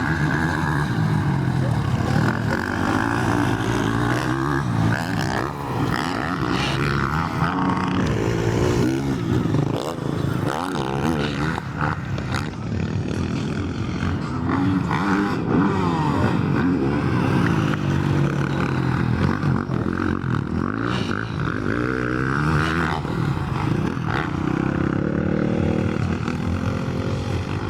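Several motocross bikes racing, their engines revving up and down over one another without a break.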